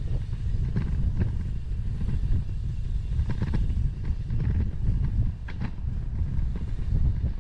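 Wind buffeting the microphone of a bike-mounted 360 camera while riding, a steady low rumble, with a few faint clicks and rattles from the bicycle.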